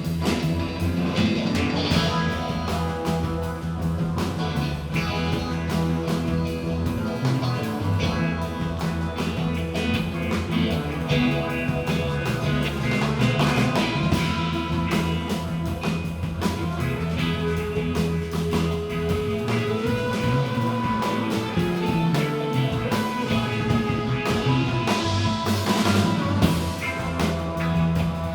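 Live rock band playing an instrumental passage: guitar over bass and drum kit, with no singing.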